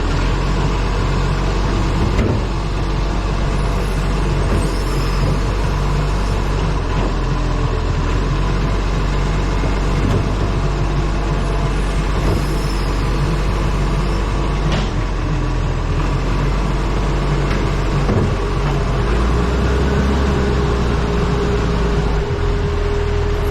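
Wind rushing over a camera strapped to the front of a moving truck, with the truck's engine and road rumble underneath. A steady hum joins in near the end.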